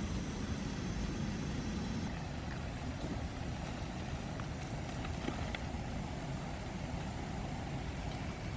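Heavy rain falling steadily, a constant even hiss and rumble, with a few faint ticks of drops.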